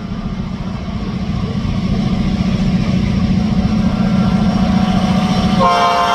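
Diesel locomotive engine running with a steady low rumble that grows louder. About five and a half seconds in, the SD9's air horn starts sounding again as a multi-note chord.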